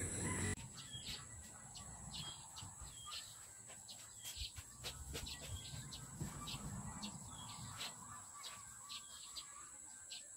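Faint birds chirping, short high chirps repeating about twice a second, over a quiet low rumble.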